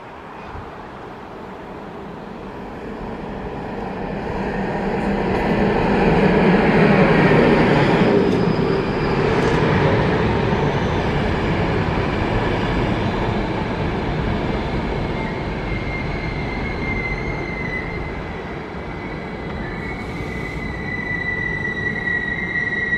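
Locomotive-hauled passenger train approaching and rolling past, loudest about seven seconds in, then running on steadily. In the last third a high, steady squeal from the train grows louder.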